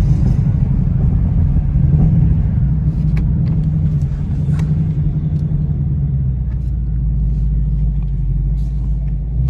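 2019 Ford Mustang GT's 5.0-litre V8 running steadily at low speed with a deep, even rumble.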